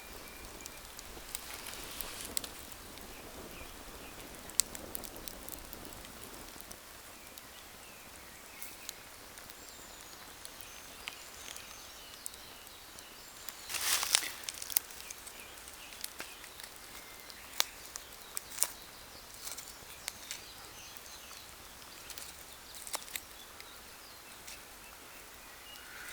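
Wood campfire crackling: scattered sharp pops and snaps over a low steady hiss, with a louder rustling burst about halfway through. Faint birdsong is heard in the background.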